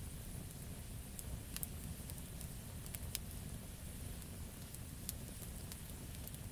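Campfire wood crackling: sharp, irregular pops and snaps over a steady low rumble of the burning fire.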